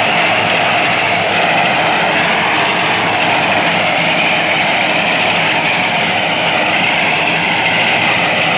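Tractor engine running steadily while driving a front-mounted rice reaper, an even, unbroken machine noise.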